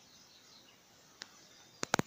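Faint birdsong over quiet outdoor background noise, broken by a sharp click a little past a second in and two louder clicks in quick succession near the end.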